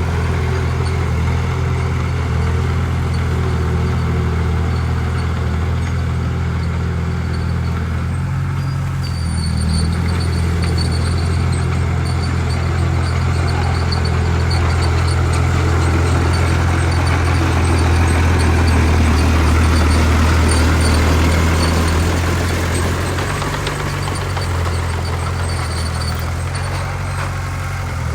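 Heavy diesel engine of earthmoving machinery running steadily with a low hum, growing louder and noisier for several seconds past the middle before easing off again.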